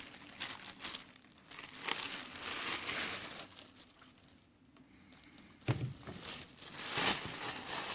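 Packaging rustling and crinkling in irregular bursts as items are handled out of a cardboard box, with one sharp knock about three-quarters of the way through.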